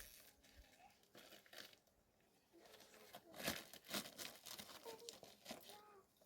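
Faint, scattered rustling and crinkling with a few sharp clicks, the loudest about three and a half seconds in.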